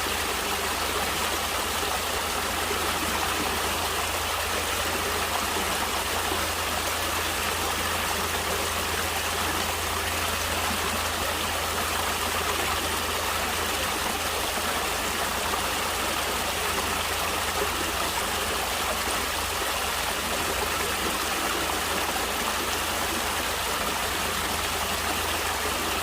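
Stream of water flowing and splashing steadily, an even rushing sound that does not change.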